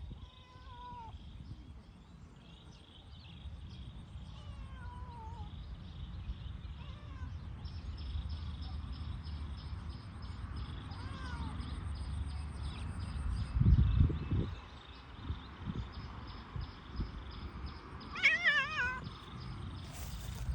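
A cat meowing several times, mostly short falling meows, with one louder, wavering meow near the end.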